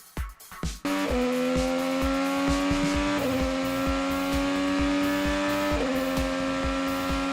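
Racing engine under full throttle, starting about a second in after a few short knocks. Its pitch climbs slowly and drops sharply at two upshifts, with a regular low thump underneath.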